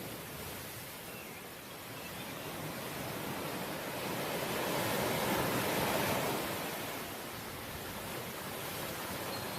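Sea waves breaking and washing on the shore, one wave swelling to a peak about halfway through and then receding.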